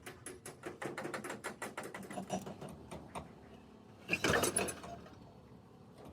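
Rapid mechanical clicking, about ten clicks a second, for roughly three seconds, then one short louder sound about four seconds in.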